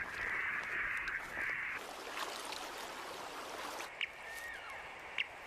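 Harsh, rough cawing from a crow-like bird, about three caws in the first two seconds. From about four seconds in come short, sharp, high pips about a second apart.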